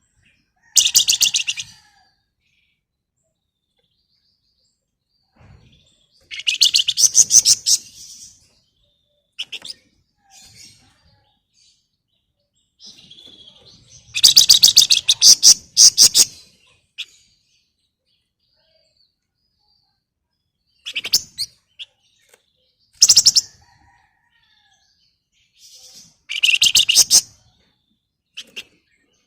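A flamboyan songbird giving loud bursts of fast, rattling chatter (ngebren), about six bursts a few seconds apart, each one to three seconds of rapid, evenly repeated high notes.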